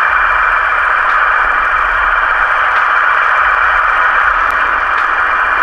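Steady, loud hiss like static, with a faint constant high tone running through it.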